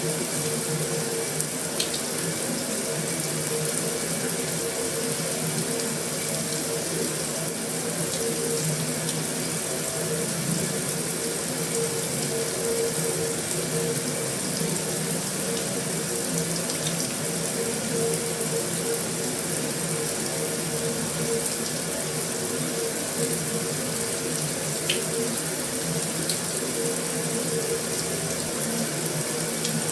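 Heavy rain falling steadily on a metal roof: a continuous even hiss, with a few sharper drop ticks standing out.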